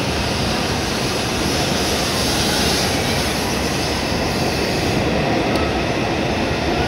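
A W7 series Shinkansen electric train departing along a station platform: a loud, steady rushing noise of its wheels and running gear as the carriages slide past.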